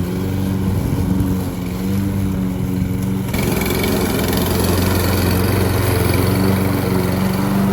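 Lawn mower engine running steadily at a constant speed. About three seconds in, a rougher, slightly louder noise joins the hum.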